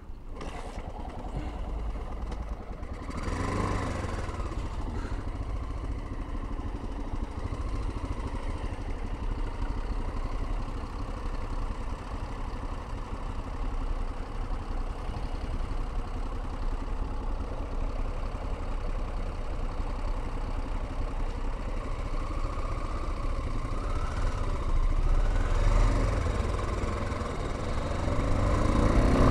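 Honda XL600R's 589cc single-cylinder four-stroke engine running at low speed, picked up by a helmet-mounted camera. The revs rise briefly a few times, about three seconds in, again around twenty-five seconds in and near the end.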